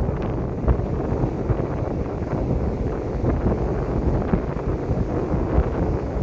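Wind buffeting the microphone over the steady rushing noise of a passenger ferry under way.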